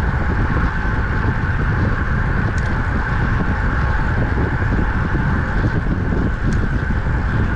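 Steady wind buffeting on the microphone of a camera riding along on a moving road bicycle, over a continuous road rumble.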